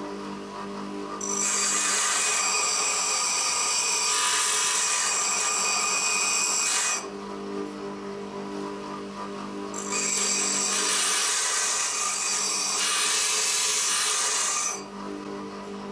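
Small power grinding tool running steadily, grinding a steel drill bit to shape in two long passes of about five seconds each, with the motor humming between them.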